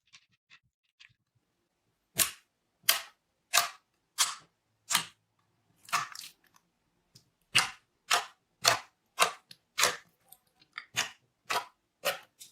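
Glossy slime squished repeatedly by hand, giving a short sticky pop with each press, about one and a half a second, starting about two seconds in with a brief pause past the middle.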